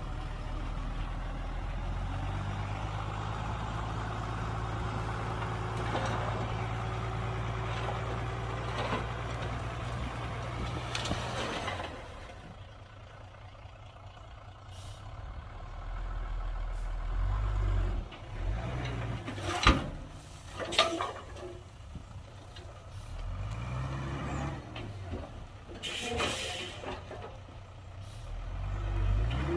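Heavy diesel dump truck engine running steadily, dropping off about twelve seconds in and then coming and going, with several short air-brake hisses and a few sharp knocks.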